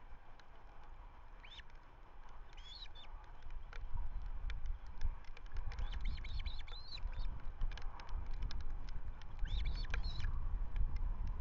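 Ospreys calling at the nest: short, high, whistled chirps, a quick run of them about six to seven seconds in and another near the end. Underneath is a low rumble with scattered clicks.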